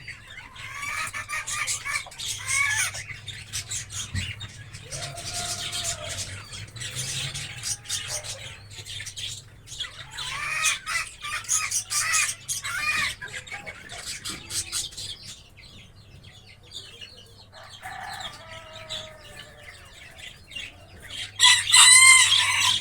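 Cockatiels chirping and calling in a cage: repeated short warbling calls mixed with scratchy clicks and rustling. A loud run of calls comes near the end.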